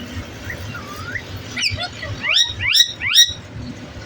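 Pet parrot calling: a series of whistle-like calls that sweep upward in pitch, the loudest three in quick succession about two seconds in.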